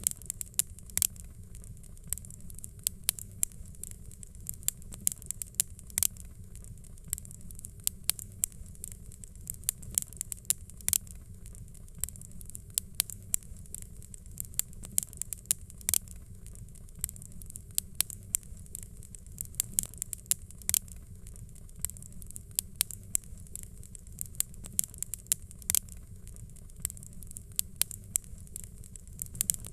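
Wood fire crackling: irregular sharp pops and snaps, a few each second, over a steady low rumble.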